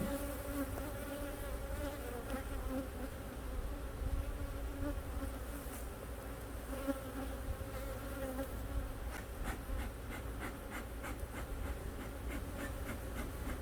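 Honeybees buzzing over an open hive, a steady hum, with a run of light clicks in the second half.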